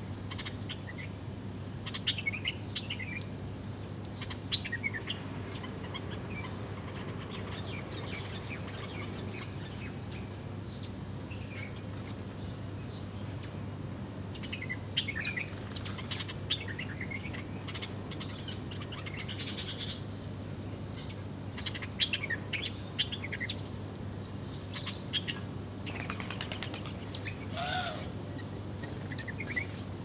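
Small birds chirping in short, scattered bursts, busiest a couple of seconds in, around the middle and in the last few seconds, over a steady low hum.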